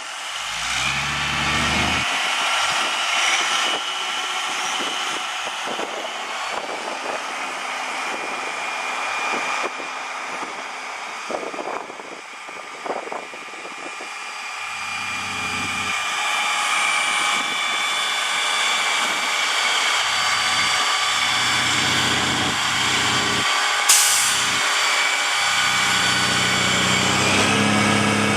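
Peterbilt 357 water truck running, with a steady high whine and hiss over a low diesel engine note that grows stronger near the end, and one brief sharp hiss about 24 seconds in.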